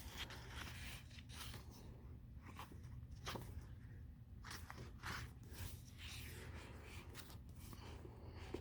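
Faint paper handling: soft rustles and light taps scattered every second or so as the pages of a sticker book are turned and handled.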